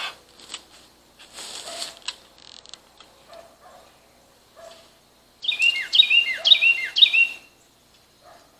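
A songbird sings one loud phrase of four quickly repeated, downward-slurred notes about five seconds in. Before it come a short click and a brief rustle, with a few faint knocks.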